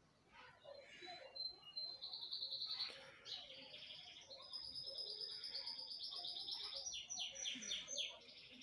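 A small bird singing faintly in high, rapid trills. The song starts about a second in and runs on almost unbroken after a short pause.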